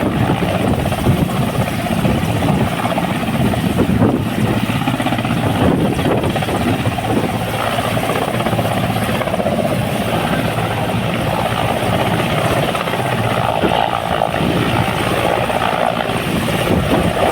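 Helicopter running steadily with loud, continuous rotor noise.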